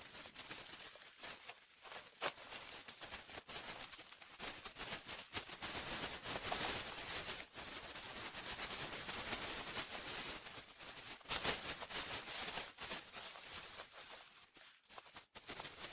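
Small fire crackling, a dense irregular run of small sharp snaps over a soft hiss.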